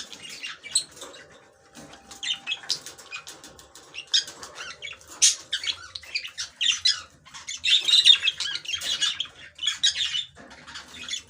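Many small cage birds chirping and calling in short, irregular bursts, with some fluttering of wings.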